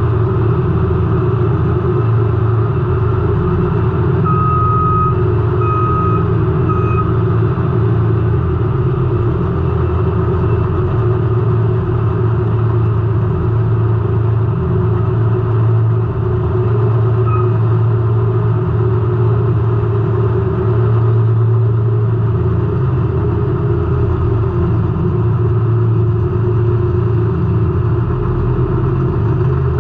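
Race car engine running hard and steady through a heat race, heard from inside the car. A high electronic beep sounds a few times: one longer beep about four seconds in, two short ones soon after, and a brief one later.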